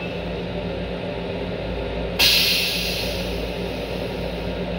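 Steady hum of a Long Island Rail Road M7 electric railcar, heard from inside its restroom. About two seconds in, a sudden hiss starts and fades away over the next couple of seconds.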